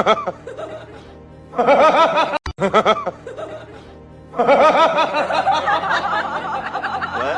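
Music with a person laughing over it in two bursts, the first about a second and a half in and the second from about four and a half seconds in.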